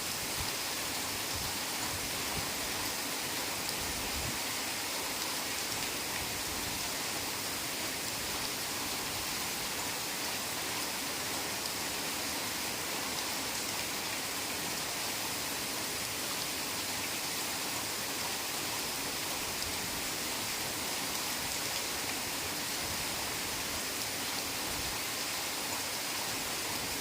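Heavy rain falling steadily, a dense, even hiss with no breaks or single drops standing out.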